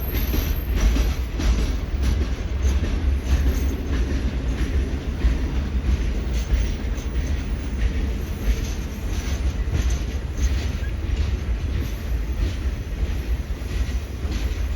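Norfolk Southern Triple Crown RoadRailer freight train rolling by: a steady, heavy low rumble with irregular clicks and clatter from the wheels on the rails.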